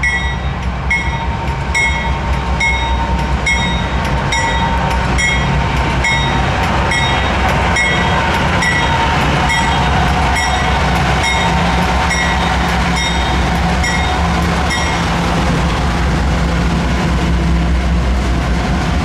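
A Norfolk Southern freight train running past, its diesel locomotives giving a steady low rumble. A grade-crossing bell rings about one and a half strikes a second over the train and stops near the end.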